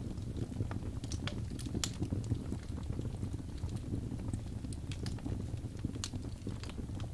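Wood fire crackling: a steady low rumble of flame with irregular sharp pops and snaps.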